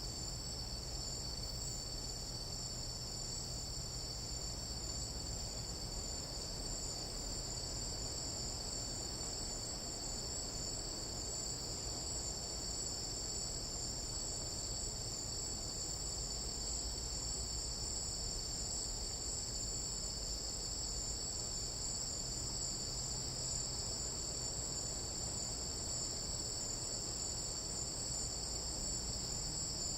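A chorus of tropical night insects trilling continuously, a steady, dense, high-pitched shrill without pauses.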